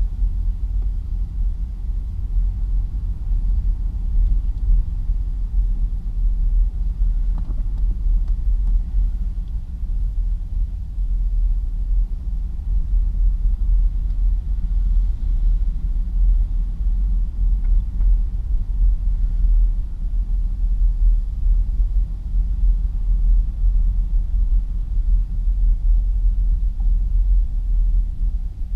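Steady low rumble of a pickup truck on the move, engine and road noise heard from a dash-mounted camera in the cab.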